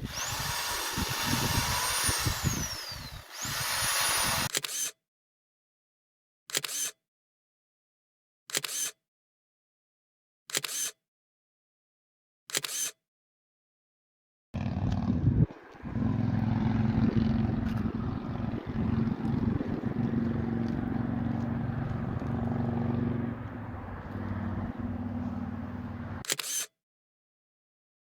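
Camera-shutter clicks over silence, four of them about two seconds apart, after a noisy sweeping start. Later a steady low machine hum runs for about twelve seconds and stops, and one more shutter click comes near the end.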